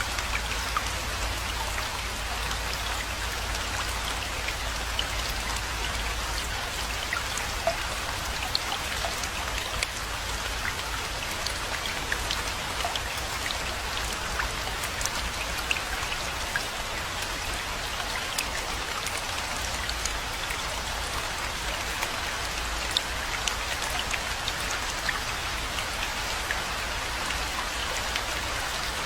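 Rain falling steadily: a dense, even hiss of rainfall with many individual drops ticking through it.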